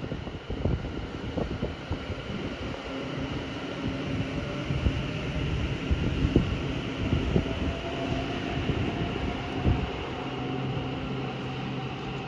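A train moving along the line: irregular clatter of wheels over rail joints over a steady low hum, with a faint tone rising slowly in the second half.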